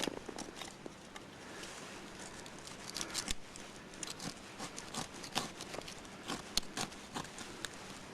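Dry deadwood being broken and worked by hand for firewood: irregular sharp snaps and clicks, a few a second.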